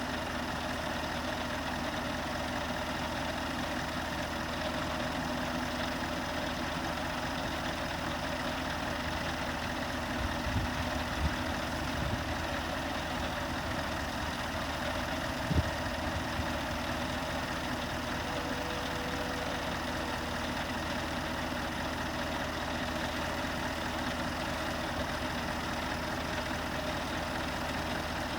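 A steady engine running at idle, with a few short low thumps near the middle.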